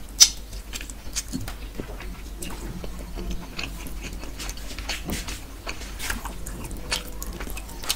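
Close-miked eating sounds of a person eating fish curry and rice by hand: wet chewing and lip smacks in an irregular run of short clicks, the sharpest about a quarter second in.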